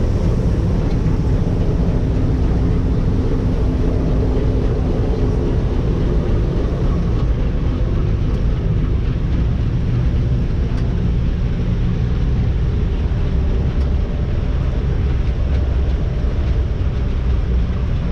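A vehicle engine running steadily at an even speed, with a low hum and rumble throughout.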